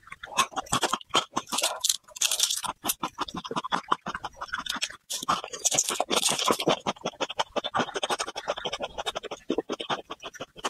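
Close-miked chewing of raw garlic, a dense run of crisp, wet crunching clicks. About six seconds in, a short sip drawn through a drinking straw.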